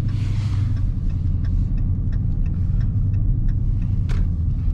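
Dodge Charger Scat Pack's V8 and the road noise heard from inside the cabin as the car drives slowly through snow: a steady low rumble with faint, fairly regular light ticks and one sharper click about four seconds in.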